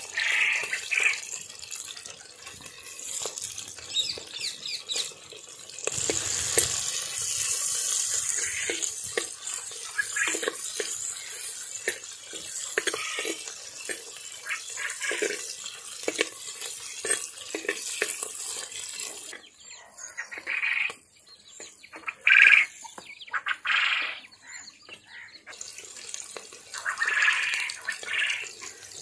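Boiled snails and green chillies frying in hot oil in an earthenware pot: a steady sizzle full of small pops. A steel spoon stirs them and scrapes the pot at times.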